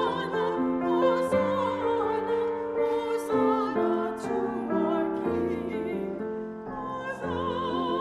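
Slow classical-style music: a solo singer with wide vibrato, accompanied by piano.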